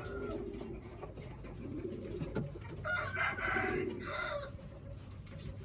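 Pigeons cooing softly and repeatedly. About three seconds in, a chicken gives a louder, higher call of about a second and a half, in two parts.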